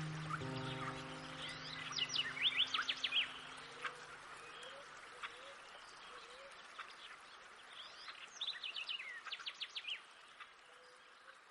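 Songbirds singing in two bursts of quick, high chirps over a steady background hiss. The last held notes of a music track fade out in the first few seconds.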